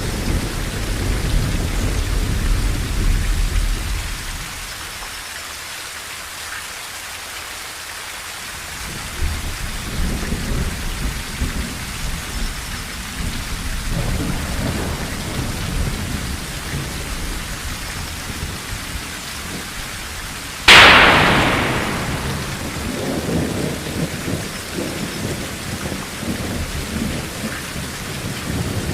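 Rain pattering steadily on a tin roof under rolling thunder. Near two-thirds of the way through, a sudden sharp thunderclap cracks, the loudest sound here, and rumbles away over a few seconds.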